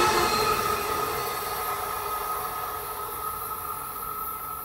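Amtrak passenger train going away down the track, its wheel and rail noise fading steadily, with a faint steady tone lingering as it dies away.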